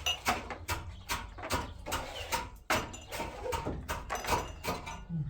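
A rapid, irregular run of clicks and knocks, about four or five a second, over a low steady hum.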